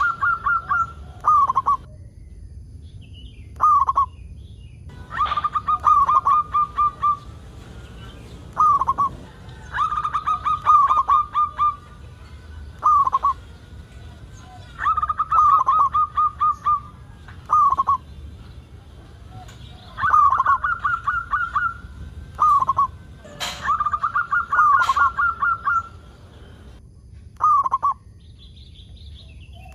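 Zebra dove (perkutut) singing over and over: each phrase a quick run of rolling coos followed by a single short coo, repeating about every four to five seconds.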